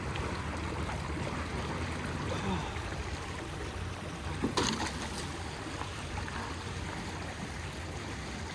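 River water rushing steadily around waders in a strong current, with one brief sharp knock or splash about four and a half seconds in.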